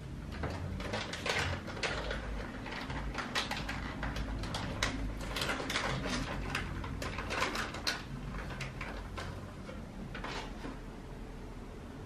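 Irregular series of short knocks, clicks and rustles of objects being handled and moved about a small room.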